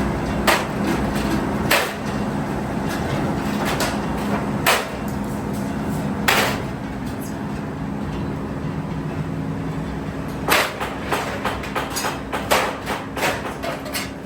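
Sheet steel being hammered: single sharp metal strikes now and then, then a quick run of about three to four blows a second near the end, over a steady workshop machine hum.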